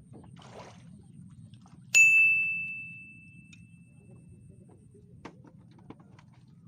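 A single bright ding starts suddenly about two seconds in and rings out, fading over about a second and a half, over a low steady background hum. A couple of faint clicks follow near the end.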